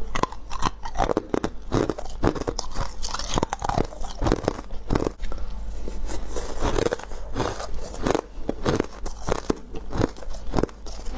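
Close-up biting and chewing of freezer frost and ice: a dense, irregular run of sharp crunches, several a second.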